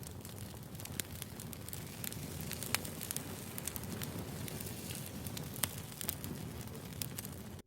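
Wood fire crackling: a steady low rush of burning logs with scattered sharp pops, the loudest about three seconds in and again near six seconds.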